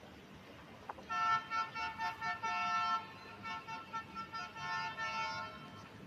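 Horn of a CBTU VLT train (a diesel light-rail railcar) sounding in a quick series of short and longer toots, a multi-note horn chord.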